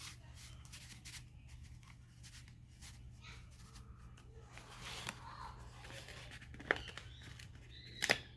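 Paper and card pieces being handled and repositioned by hand: soft rustling and light taps and clicks, the sharpest a few near the end, over a low steady hum.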